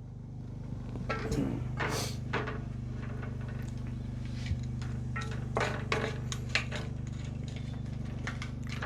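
Utensil scraping and knocking in a pot in short, irregular strokes, working the browned bits off the bottom, over a steady low hum.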